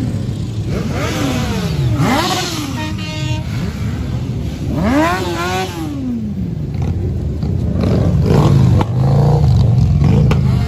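A crowd of motorcycle engines idling with a steady low rumble, while riders blip their throttles in revs that rise and fall in pitch, the biggest about a second in and about five seconds in. A short steady horn-like tone sounds about three seconds in.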